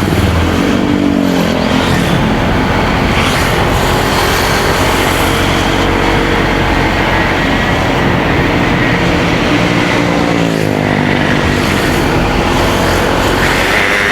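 Motorcycle engine running under way, with wind and road noise. Its pitch rises and falls a couple of times as the throttle and speed change.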